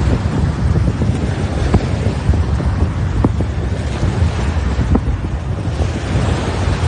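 Strong storm wind buffeting the microphone: a loud, uneven low rumble over a steady hiss, with a few faint clicks.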